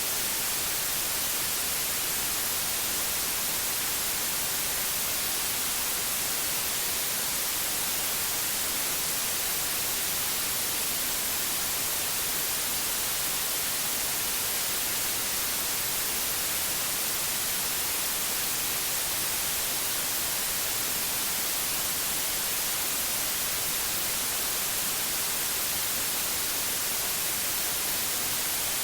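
Steady, unchanging white noise: an even hiss, strongest in the treble, with no tones or breaks.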